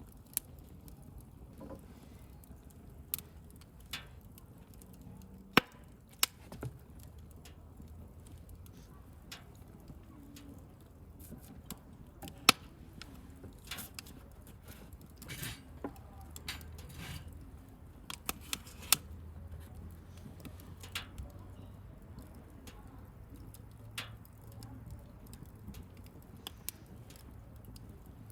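Wood campfire burning, with irregular crackles and a few sharp pops over a soft low rumble of flame.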